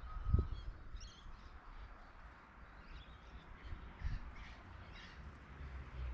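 Birds calling with short, scattered high calls, and a few low thumps, the strongest about a third of a second in and another about four seconds in.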